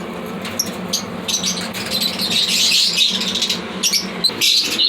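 A flock of lovebirds chirping and squawking, many short calls overlapping, over the steady low hum of an evaporative air cooler.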